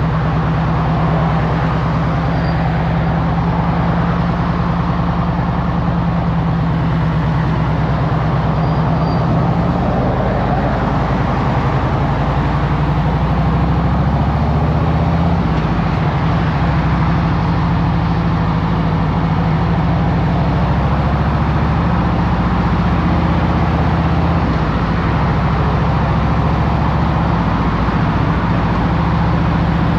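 Harley-Davidson Road Glide Special's V-twin engine running in traffic. It holds a steady, even beat for about the first ten seconds, then rises and falls in pitch as the bike changes speed.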